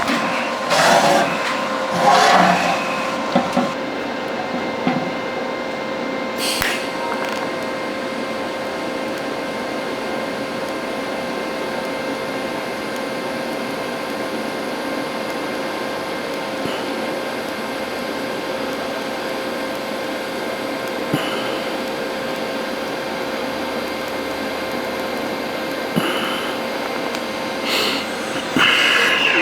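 TIG welding arc on stainless steel: a steady buzzing hiss with a constant hum, running evenly through the weld. A sharp click comes about six and a half seconds in, and there are a few brief louder bursts near the start and near the end.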